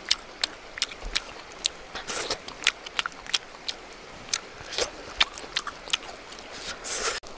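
A person chewing a mouthful of food close to the microphone, with lip smacks: a run of irregular short clicks.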